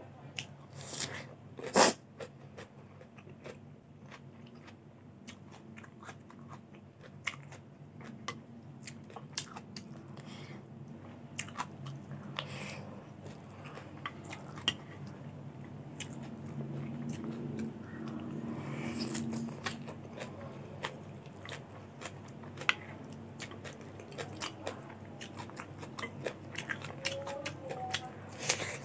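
Close-up crunchy biting and chewing of raw cucumber, with sharp crisp crunches scattered throughout, the loudest about two seconds in.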